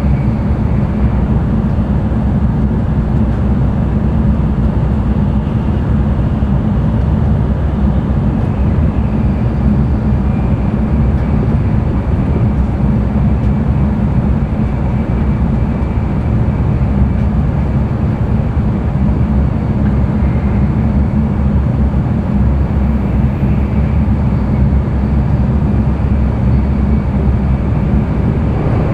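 Running noise of an N700-series Tokaido Shinkansen train at speed, heard from inside the passenger cabin: a steady, deep rumble with a faint high tone drifting in and out.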